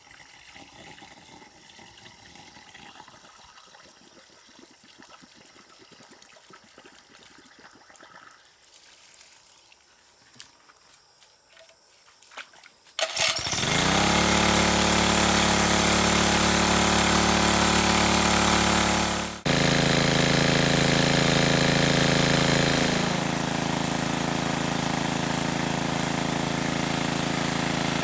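Faint outdoor ambience with a few small clicks, then about halfway through a small engine starts, rising quickly in pitch, and runs steadily. It cuts out for an instant, picks straight back up, and settles a little quieter near the end.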